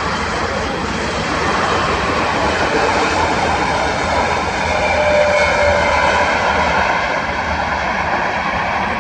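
Twin turbofan engines (GE CF34) of an Embraer ERJ-175 airliner: a loud, steady roar with several whining tones, a few of them drifting slowly in pitch.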